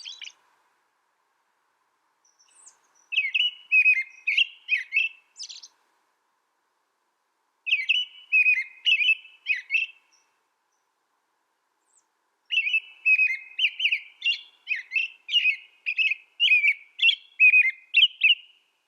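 A finch singing phrases of rapid, repeated twittering notes: one phrase ends just at the start, then three more follow about 3, 8 and 12 seconds in, the last about six seconds long, with silent gaps between.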